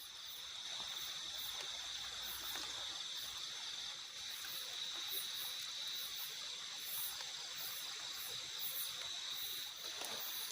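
Forest insects calling: a steady shrill chorus, with a very high chirp repeating about once or twice a second over it.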